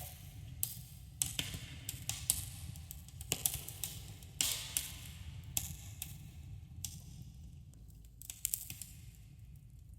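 Wood campfire crackling with irregular sharp pops over a steady low rumble, with a slight echo as in a cave.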